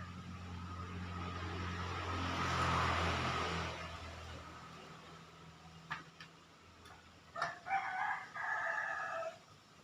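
A rooster crows near the end in one long, broken call. Before it, an engine hums low and a rising whoosh peaks about three seconds in, then fades away.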